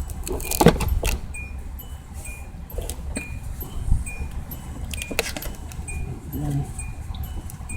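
Car warning chime beeping steadily, a short high tone repeating at an even pace, with a few sharp metallic clatters and a low steady rumble underneath.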